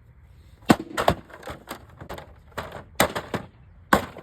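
A hammer hitting a mini fridge's door again and again: about a dozen sharp knocks at an uneven pace, the hardest about a second in and near the end.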